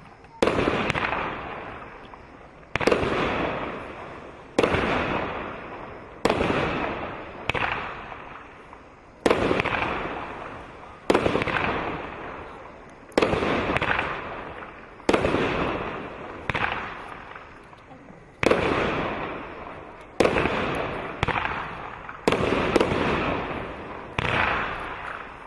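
A 16-shot firework cake firing its shots one after another, one every one to two seconds, each a sudden bang that trails off over a second or so before the next.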